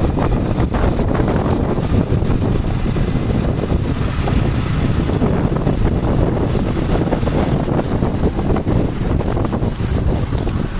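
Steady wind rumble buffeting the microphone on a moving vehicle, with the vehicle's running noise underneath.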